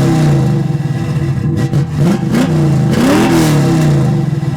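1972 Chevy Nova's small-block 350 V8 being revved with blips of the throttle. The revs fall back from one blip, then climb again about two seconds in, peak a little after three seconds and drop back toward idle.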